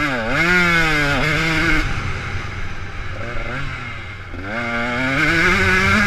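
Motocross motorcycle engine revving, its pitch rising and falling with the throttle: it drops and climbs in the first second, runs lower and quieter through the middle, then climbs again near the end.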